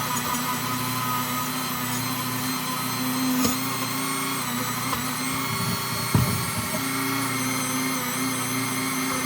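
Dremel rotary tool running at a steady high speed with a constant whine, sanding the recessions of an aluminium BMX chainring; the pitch dips briefly when the bit is pressed onto the metal, about six seconds in.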